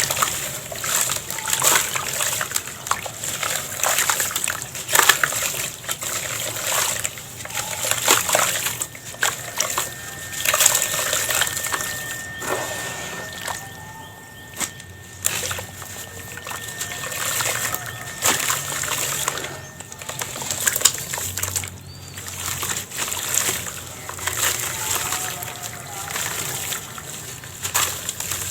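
Moulded yellow sand-cement shapes being crumbled by hand: a steady run of gritty crunching and crumbling, with loose bits falling.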